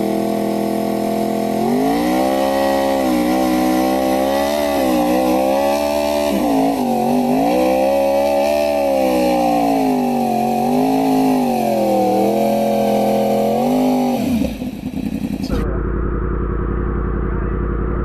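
Yamaha R1 inline-four engine held at high revs for a burnout, its pitch rising and falling again and again as the throttle is worked. Near the end the throttle is let off and the revs drop away.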